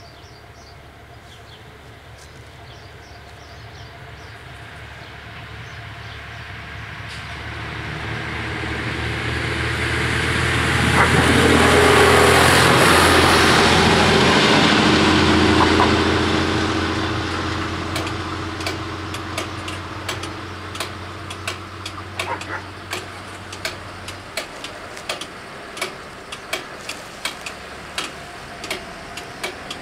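A Ferrovie Sud Est diesel train approaches and passes over the level crossing. Its engine and wheel noise grow to a peak about twelve to sixteen seconds in, then fade, and the low engine note drops out around twenty-four seconds. From about eighteen seconds on, a level-crossing bell strikes regularly, roughly one and a half times a second.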